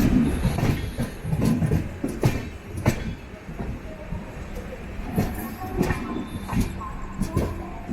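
Passenger train coach running over the track into a station: a steady low rumble with irregular sharp clacks of the wheels crossing rail joints and points.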